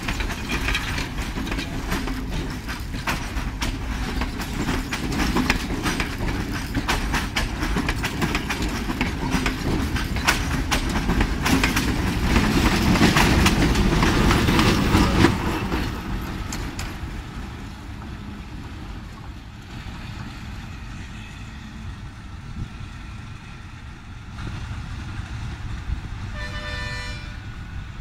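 Train passing at close range: the coaches' wheels clack rapidly over the rail joints, building to the diesel locomotive's rumble about halfway through, then cutting back to a quieter rumble as it goes. Near the end comes one short train horn blast.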